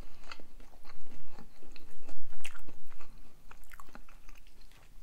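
People chewing and biting homemade pizza: a string of irregular short mouth clicks and chewing sounds.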